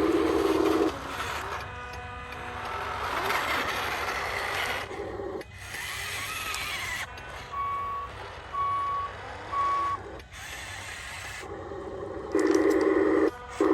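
Truck reversing beeper sounding three short, evenly spaced high beeps about a second apart, over truck noise, with longer, lower tones near the start and again near the end.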